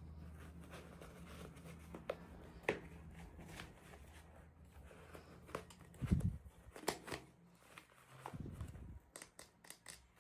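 Light clicks, taps and crinkles of small toy packaging being handled and opened, with a soft thump about six seconds in.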